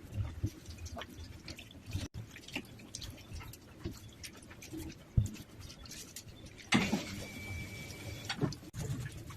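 Rainwater dripping in irregular drops and ticks, with a couple of louder knocks about five and seven seconds in.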